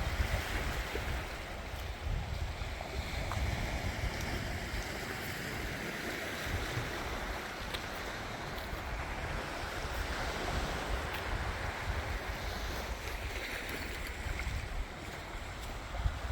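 Small waves washing onto a sandy Mediterranean beach, a steady surf wash that swells and eases, with wind rumbling on the microphone.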